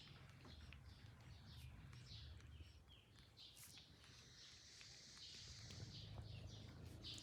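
Faint, high-pitched animal chirps repeating every fraction of a second, with a longer chirping stretch in the middle, over a low steady hum.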